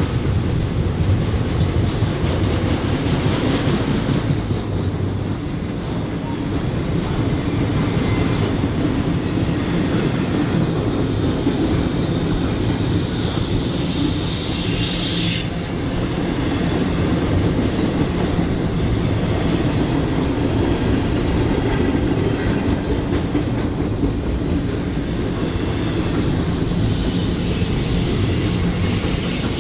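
BNSF freight train cars rolling past at trackside: a loud, steady rumble of steel wheels on rail. A short high-pitched screech comes about halfway through, and a thin wheel squeal runs through the last few seconds.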